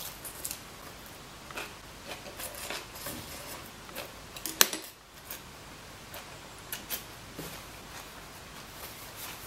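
Chewing and soft crunching of a spring roll of rice paper, lettuce and raw vegetables, with small mouth clicks and smacks throughout. A single sharp click, chopsticks against the bowl, comes about halfway through and is the loudest sound.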